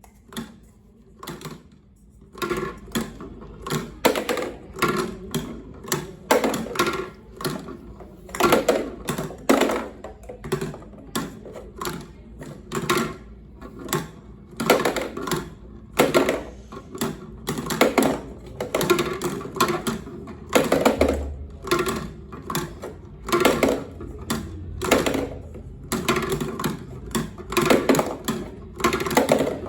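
Marbles rolling and clacking down a wooden HABA marble run, a dense run of irregular clicks and knocks.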